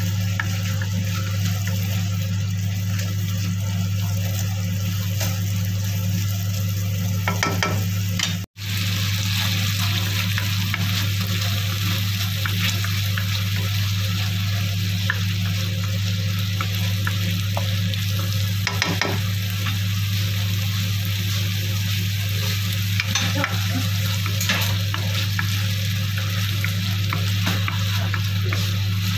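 Chopped tomatoes sizzling in hot oil in a wok while a wooden spatula stirs them, scraping the pan now and then, over a steady low hum. The sound cuts out for an instant about eight seconds in.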